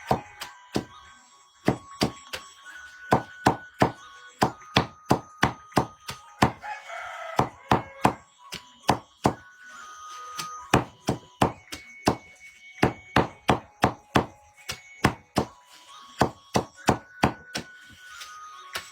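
Firewood being chopped with a blade: a long run of sharp strikes on wood, about two a second and uneven in spacing. A rooster crows about seven seconds in.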